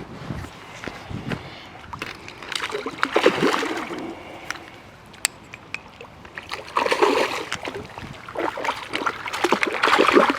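A hooked fish splashing and thrashing in the shallows at the bank while it is played in, in three bouts of irregular sloshing, with a single sharp click about halfway through.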